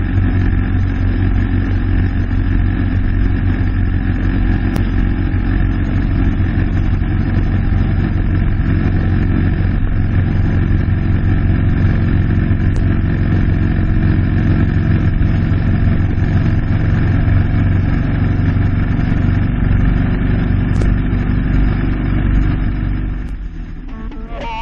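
Victory motorcycle V-twin engine running steadily at road speed while riding. It drops away about a second before the end.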